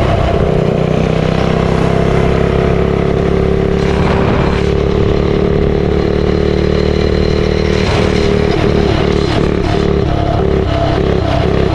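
Custom Motovox mini bike's small single-cylinder engine running while the bike is ridden, holding a steady note for most of the time. In the last few seconds its note wavers in a regular pulse of about two a second.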